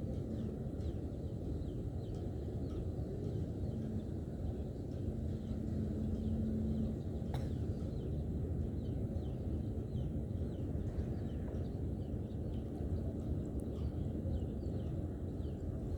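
Steady low outdoor rumble with many faint, short bird chirps throughout, and a single sharp click about seven seconds in.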